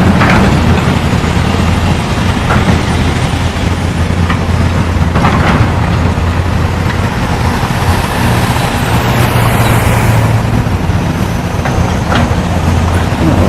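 Steady motor-vehicle engine hum with road noise, typical of driving in a car. A faint high whine falls in pitch about nine seconds in.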